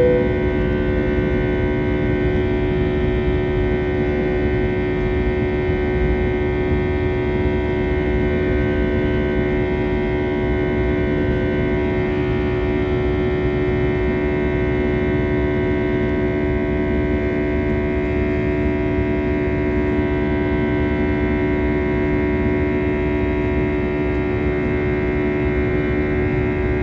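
Airbus A320 cabin noise: the engines and airflow make a steady rumble with several constant droning tones over it.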